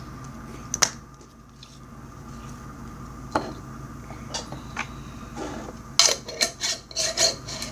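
Plastic slime containers being handled: scattered light clicks and knocks, with a quick run of louder clicks near the end, as of lids and tubs knocked together and set down.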